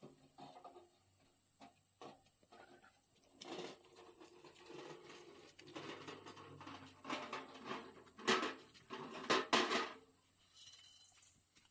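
Irregular clatter of small knocks and scrapes, with a few louder sharp knocks about eight and nine and a half seconds in.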